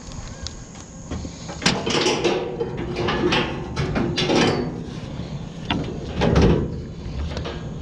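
Clattering and scraping of hard objects being handled and moved, a run of knocks and scrapes from about a second and a half in until six and a half seconds in, some of them ringing.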